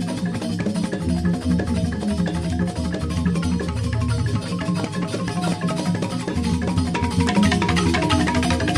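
Balinese joged bumbung bamboo gamelan playing a fast, dense piece: struck bamboo xylophones in quick interlocking strokes over drums. The music grows brighter and a little louder about seven seconds in.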